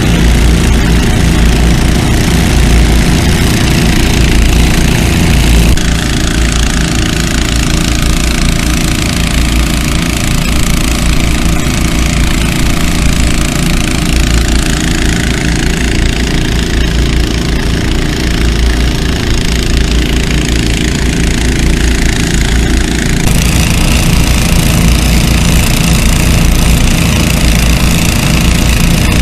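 Several small gasoline-engine water pumps running steadily together, pumping water through hoses; the mix of engine sound shifts abruptly twice, about 6 and 23 seconds in.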